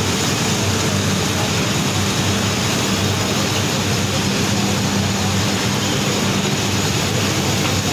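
Sugar mill machinery and engines running in a steady drone, with a constant low hum under a wash of mechanical noise.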